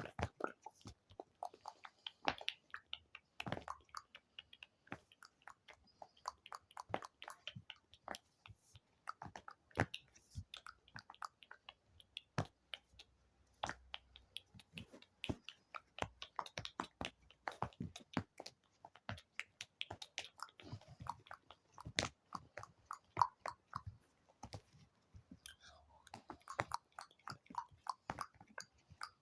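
ASMR mouth sounds: a fast, irregular stream of wet clicks and smacks.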